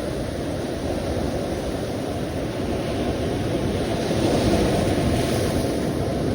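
Sea waves washing in a continuous rumbling surf, swelling slightly as a wave breaks about two thirds of the way through.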